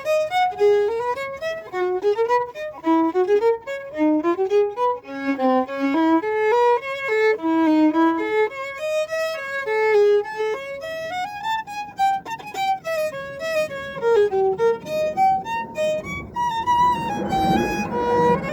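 Fiddle music: a single fiddle plays a quick, running melody. Near the end a rushing noise swells up underneath it.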